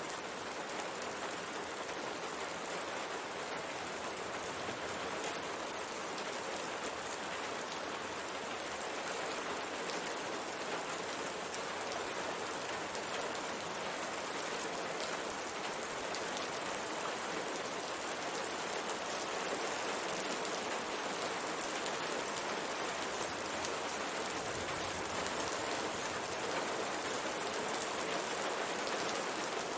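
Steady rain pattering on window glass: an even hiss of rainfall with fine, scattered drop ticks.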